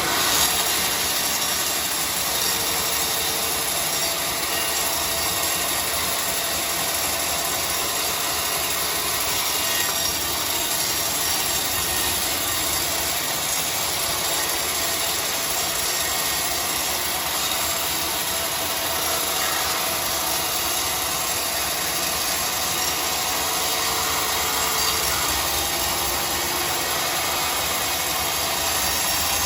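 Large sawmill saw running steadily, making a constant machine noise with a strong high hiss.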